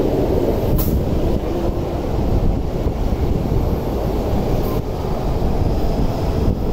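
MTR East Rail line electric multiple-unit train moving along the platform close by, a steady rumble of wheels and running gear. Two brief sharp high-pitched sounds come through, about a second in and near five seconds.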